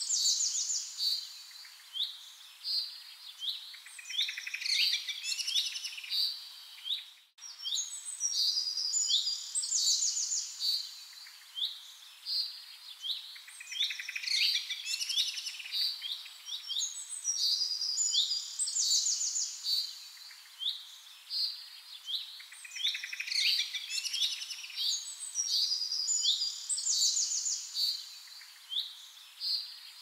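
Birdsong: many birds calling in quick, high chirps and trills, with a brief break about seven seconds in.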